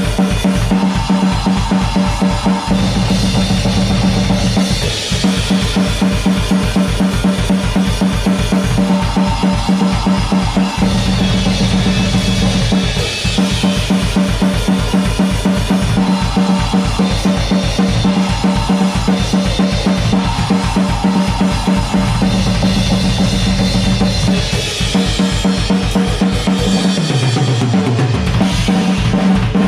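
Drum kit played hard and fast, with rapid, even bass-drum strokes and snare hits, over heavy backing music. The fast bass-drum pattern drops out near the end.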